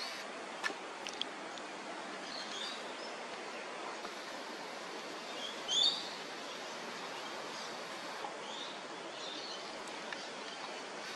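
Steady outdoor background hiss with scattered short bird calls, the loudest a brief call about six seconds in; a couple of faint clicks come in the first second or so.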